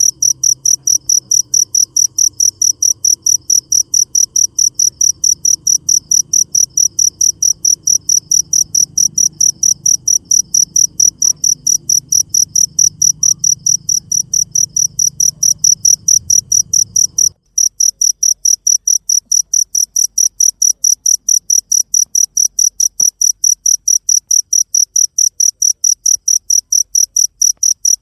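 Cricket chirping loudly and steadily in a very regular, high-pitched pulse of about three to four chirps a second. A faint low rumble underneath cuts off suddenly about two-thirds of the way through, while the chirping carries on.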